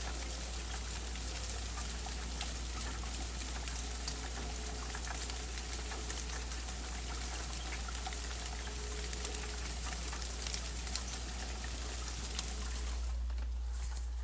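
Steady rain, with many separate drops tapping close by. Near the end the rain sound drops away abruptly.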